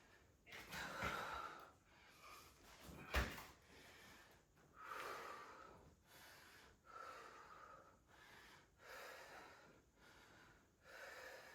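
A woman's heavy breathing from exertion, hard breaths coming about every two seconds, with a single sharp thud about three seconds in.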